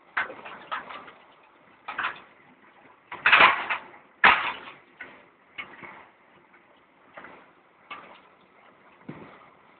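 Metal clanks and rattles from a towed hay bale accumulator at work, coming as irregular knocks with the loudest pair about three and four seconds in.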